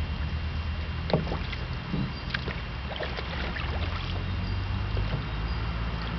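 Small boat running on the water: a steady low motor hum, with scattered light knocks and splashes.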